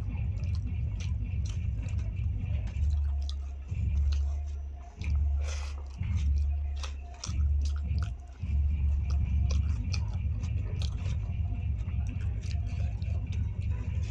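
A person chewing and eating a rice-and-curry meal, with many short wet mouth clicks and smacks. Under it runs a steady low hum that swells in several one-second surges between about 3 and 9 seconds in.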